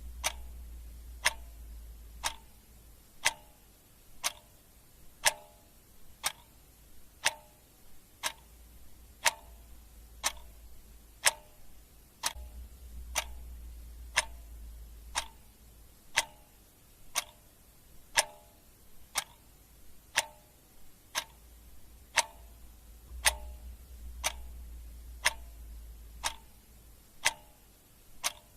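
Clock ticking steadily at about one tick a second, the ticks alternating stronger and weaker like a tick-tock. A faint low hum comes and goes underneath.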